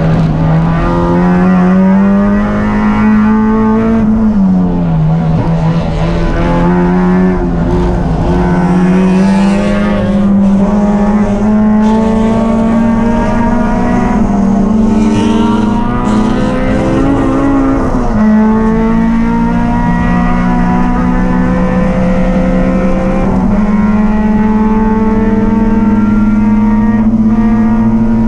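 A race car engine running continuously at high revs under racing load, its pitch holding fairly steady. It dips briefly about four seconds in as the driver lifts, then climbs again in steps later on, with tyre and road noise underneath.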